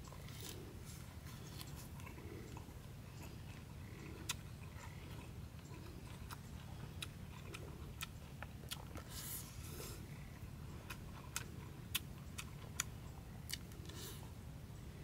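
A person eating with their hands, chewing and crunching bites of a lettuce-leaf wrap. Short sharp crunches and mouth clicks recur irregularly throughout, over a steady low hum.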